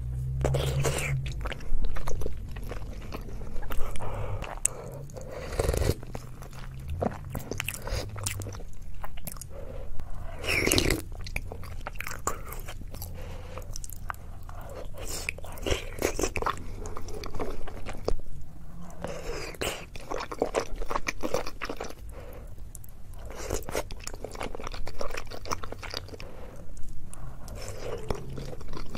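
Close-miked chewing and biting of whole boiled eggs coated in spicy sauce, with irregular mouth clicks throughout.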